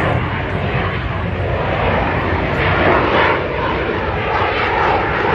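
Aircraft engine noise from an airplane in flight, loud and steady, swelling to its loudest about three seconds in.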